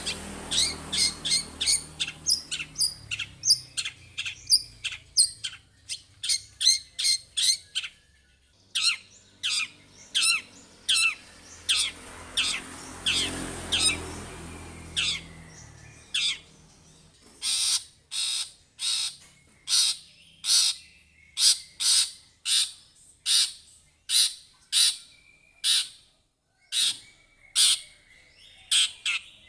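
Long-tailed shrike (cendet) calling in a long series of short, harsh notes, about three a second at first, then slowing to roughly one a second in the second half.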